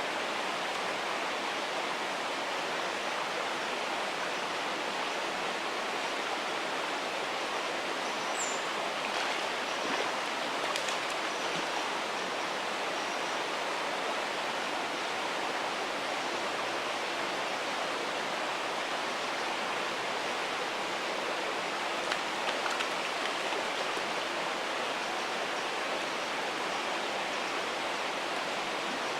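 River Don water running over stones: a steady, even rush with no pauses, with a couple of faint ticks about ten and twenty-two seconds in.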